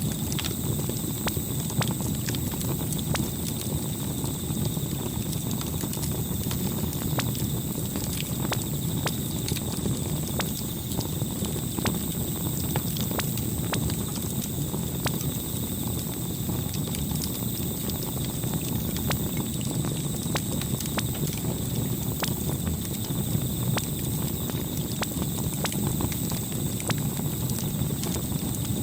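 Campfire burning: a steady low rush of flames with frequent small, irregular crackles and pops.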